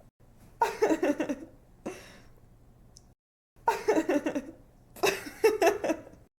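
A young woman laughing in short giggling bursts, each made of several quick "ha" pulses: one burst about half a second in, a faint breathy laugh around two seconds, then two more bursts after a brief cut to silence. The laughter cuts off abruptly near the end.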